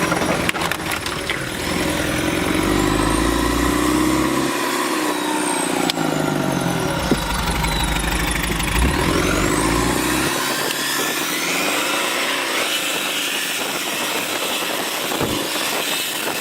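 Vehicle engine running under load, its pitch rising and falling several times as it is revved, with a few knocks and clunks.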